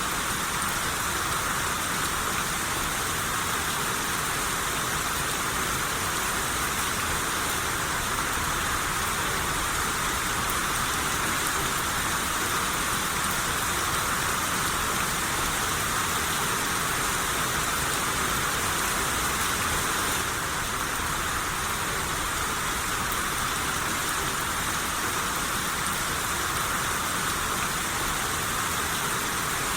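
Steady rain shower falling, an even hiss of rain on surfaces with no thunder.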